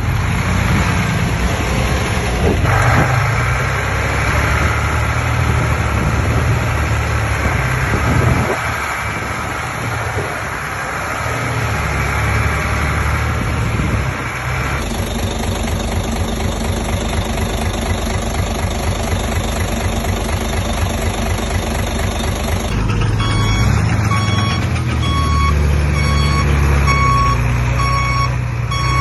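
Heavy diesel engine of construction machinery running, its note changing a couple of times with load. Later, a reversing alarm starts beeping steadily, about once a second.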